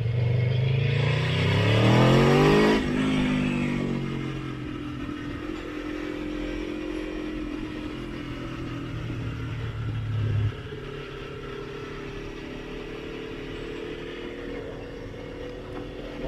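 Motorcycle engine accelerating hard, its pitch climbing for about three seconds before dropping off. It then runs at a steady pace with a low drone that cuts off suddenly about ten seconds in, leaving a quieter, steady engine note.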